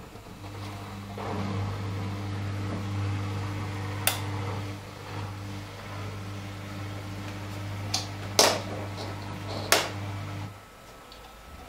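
AEG Lavamat L88489FL washing machine giving a steady electric hum, with several sharp clicks or knocks over it; the hum stops about ten and a half seconds in.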